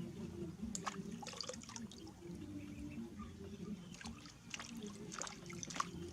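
Bath water trickling and splashing, with short sharper splashes about a second in and several more in the second half.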